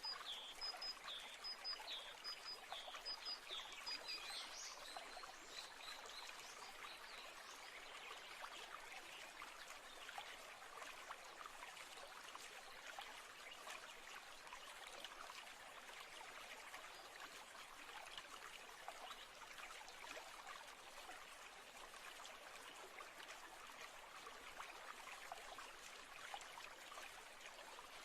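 A stream trickling and burbling steadily. In the first few seconds a bird calls over it, a series of short high chirps about two a second.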